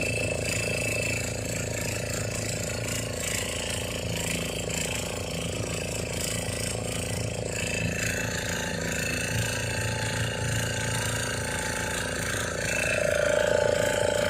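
Boat engine running steadily with a fast, even rattling beat.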